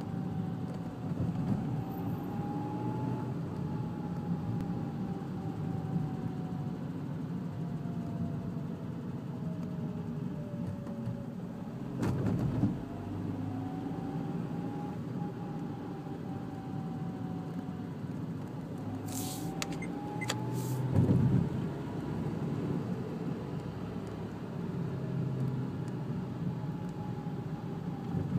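Dacia Sandero 1.4 four-cylinder petrol engine, converted to run on LPG, going up and down in revs several times, with a whine that rises and falls with engine speed and two brief louder surges about 12 and 21 seconds in. The owner reports an abnormal noise that appears around 1500 rpm as the engine slows down.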